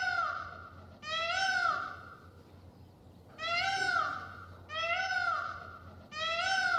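An animal calling over and over: about five drawn-out calls, each rising and then falling in pitch, a little over a second apart.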